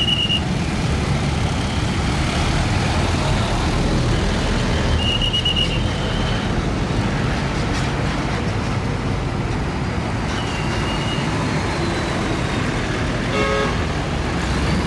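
Heavy road traffic with truck engines rumbling as vehicles pass, a short high tone about five seconds in and a brief horn toot near the end.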